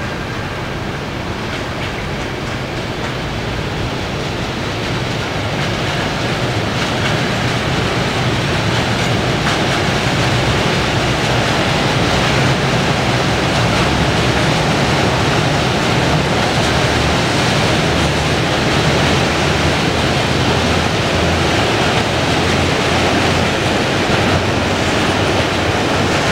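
Mixed freight train of container wagons and gas tank wagons rolling past: a steady noise of wheels on the rails that grows louder over the first dozen seconds, then holds.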